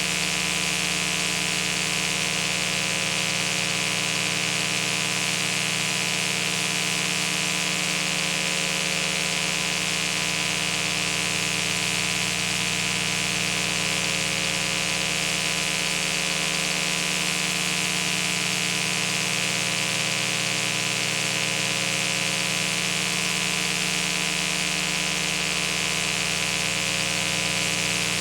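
Steady hiss with a layered electrical hum, unchanging throughout: background noise of an old home-video recording, with no other sound.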